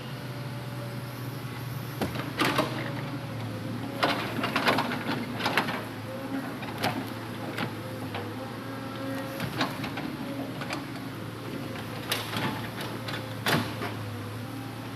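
Hitachi Zaxis 200-5G excavator's diesel engine running steadily, with irregular sharp knocks and clanks, a cluster of them a few seconds in, as it works the logs.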